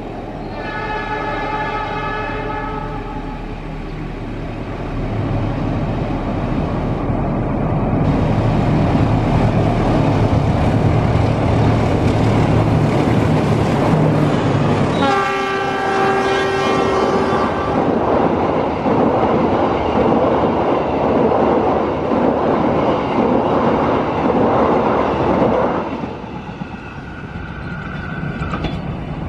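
Diesel-electric locomotive of a passenger train sounding its horn, a held chord, near the start and again about halfway, while the engine rumble builds and the train crosses a steel truss railway bridge with loud rolling and rattling wheel noise. The noise drops off sharply near the end.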